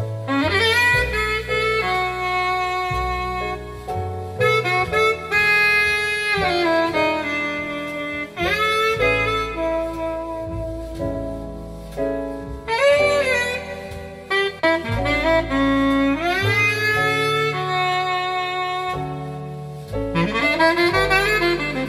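Jazz saxophone playing a slow ballad melody with slides into its notes, over double bass notes. The music is loudspeaker playback picked up by a microphone in the room.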